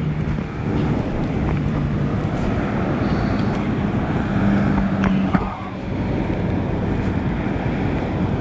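Motorcycle riding in the rain: wind blasting the microphone over a steady engine hum and the hiss of tyres on a wet road, with a short knock about five seconds in.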